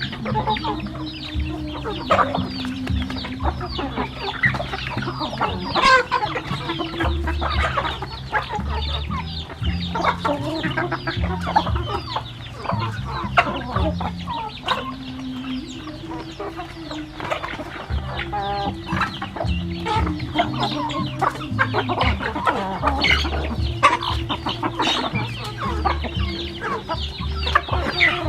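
A flock of chickens clucking continuously, many short overlapping calls.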